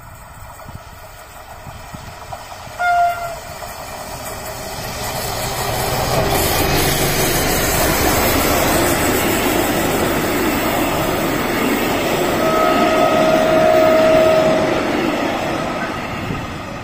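A works train of flat wagons from a rail-welding firm passes close by, its noise building and then easing. Its horn gives a short blast about three seconds in and a longer, steady blast near the height of the pass.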